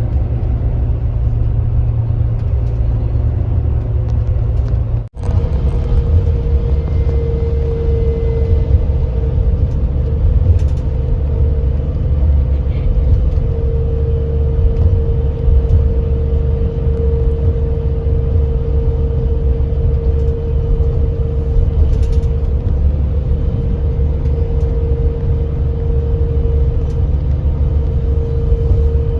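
Kia Granbird Sunshine coach running steadily at cruising speed: a continuous low engine and road rumble. The sound cuts out for an instant about five seconds in, and after that a steady whine runs along with the rumble.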